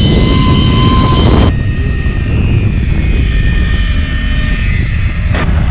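Zip-line trolley running fast along the steel cable, a steady rushing rumble with a thin whine, mixed with wind on the microphone.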